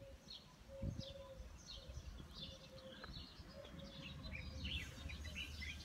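Small birds chirping, many short calls scattered and overlapping, faint over a low steady outdoor rumble.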